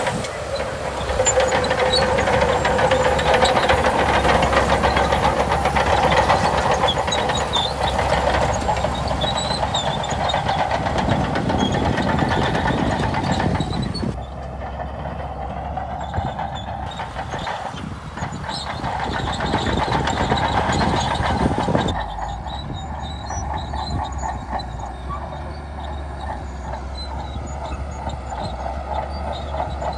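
Heavy earthmoving machinery working: diesel engine running under load with a rumbling, clanking sound like crawler tracks. The sound changes abruptly about 14 and 22 seconds in.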